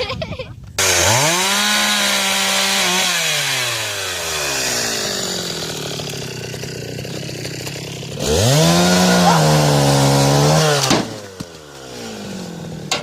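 Dolmar 111 two-stroke chainsaw revved to full throttle about a second in, its pitch sagging as it cuts into firewood with a rasping chain noise. It is revved up again about eight seconds in and let drop back near the end.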